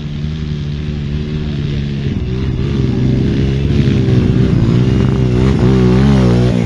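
Off-road motorcycle engine running, then revving with repeated rises and falls in pitch and growing louder from about two-thirds of the way in.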